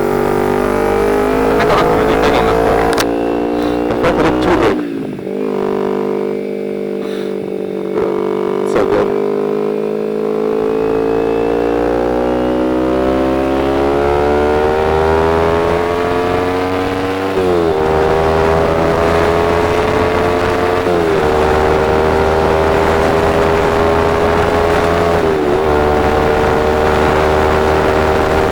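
Motorcycle engine accelerating under way, its note climbing slowly in pitch and then dropping sharply at a gear change about two-thirds through, with smaller drops at later shifts or throttle lifts before it settles into a steady cruising note.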